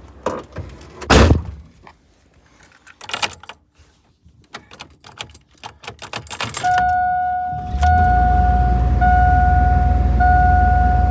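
A door thunks shut and keys jangle. Then the GMC Sierra's engine cranks and catches about a second later in a cold start at 8 degrees, settling into a steady idle. A warning chime beeps repeatedly over it.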